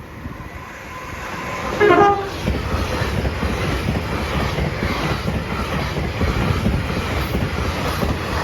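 Passenger train approaching and running through a level crossing at speed, sounding a short horn blast about two seconds in, the loudest moment. Then a steady rumble of wheels on the rails as it passes.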